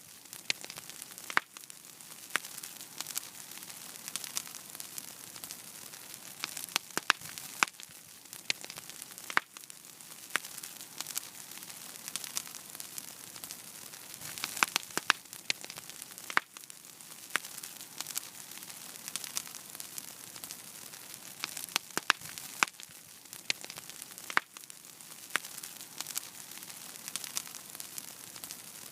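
Wood fire burning in a fireplace: a steady soft hiss with irregular sharp crackles and pops, some coming in quick clusters.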